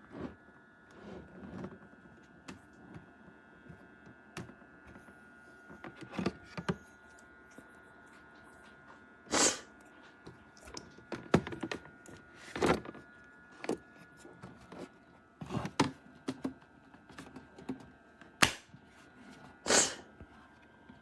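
Scattered knocks, clicks and thunks, a few of them sharp and loud, over a faint steady high whine.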